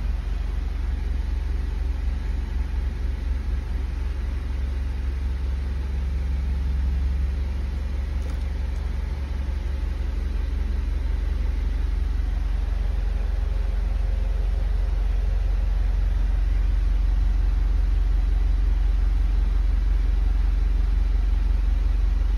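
Jaguar F-Type's 2.0-litre turbocharged four-cylinder engine idling in Park, a steady low rumble heard inside the cabin, growing a little louder about halfway through.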